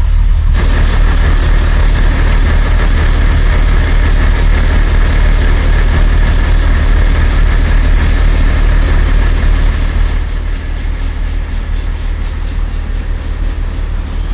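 Diesel train engine idling: a loud, steady low hum with a hiss over it, which eases off about ten seconds in.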